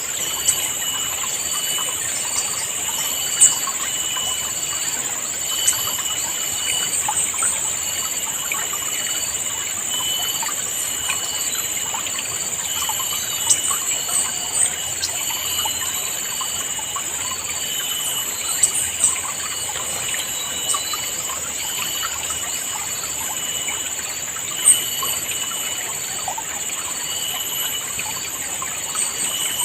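River water gurgling and trickling, with short bird chirps scattered through it. A steady high-pitched drone with a softly repeating pulse runs underneath.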